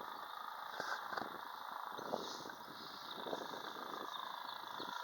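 Faint outdoor background noise: a steady hiss with a few soft clicks, and a quick run of faint high ticks near the end.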